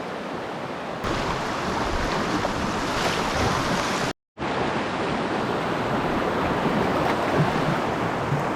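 Flowing river water rushing over a shallow rocky bed, a steady hiss. It breaks off to silence for a split second about four seconds in, then carries on.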